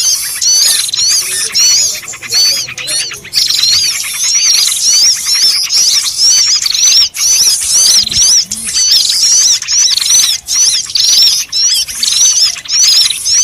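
A bird-lure recording of a noisy chorus of small birds. Rapid, repeated high chirps and whistled notes sweep up and down several times a second, loud and unbroken.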